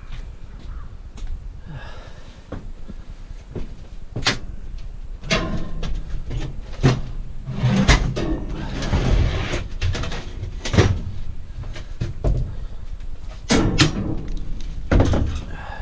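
Scrap metal being handled: repeated sharp clanks and knocks of metal pieces, with a longer rattling scrape about eight seconds in.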